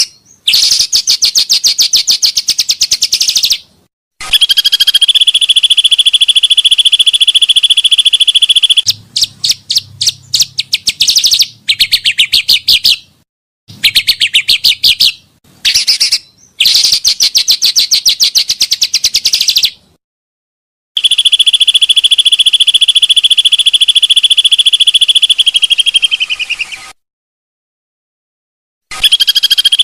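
Pancawarna bird song, played as a lure recording: bursts a few seconds long of very rapid, buzzy, high trilling notes, some holding a steady pitch. Each burst starts and stops abruptly, with short silent gaps between.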